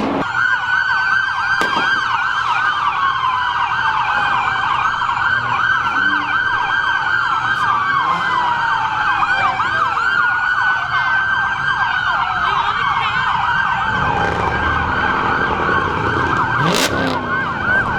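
Several police sirens sounding at once, with fast overlapping yelps and slower falling wails layered over each other. A low rumble comes in about three quarters of the way through, and a single sharp bang is heard near the end.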